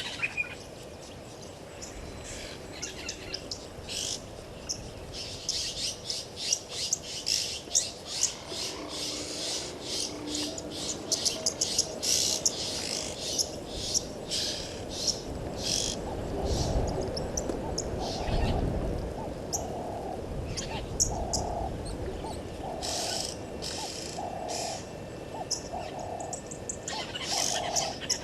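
Several birds chirping and calling, with a bird starting a run of evenly spaced low hoots, about one a second, some two-thirds of the way in. A low rumble rises and falls around the middle.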